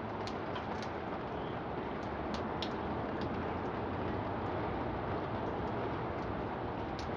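Steady rain falling, an even hiss with scattered light ticks.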